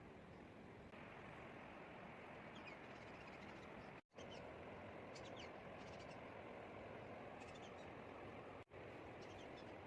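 Faint outdoor ambience: a steady low hiss with faint, short, high bird chirps scattered through it. The sound drops out for an instant twice.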